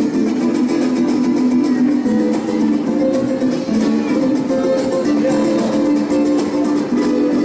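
Mariachi band playing an instrumental passage: guitars strumming a steady rhythm under held melody notes.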